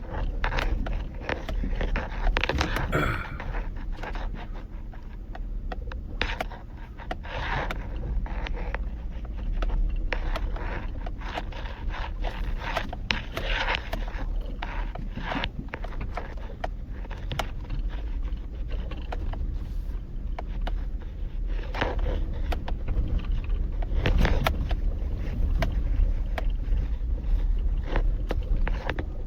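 Sierra pickup truck driving over a rough dirt track, heard from inside the cab. A steady low rumble runs with frequent knocks and rattles as the truck bounces, and several louder scraping swells come from the tyres and body.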